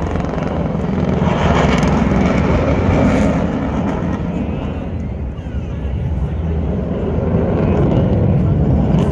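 Military aircraft flying past at a flying display, a loud low-pitched engine and rotor noise. It swells about two seconds in, eases near the middle and builds again toward the end.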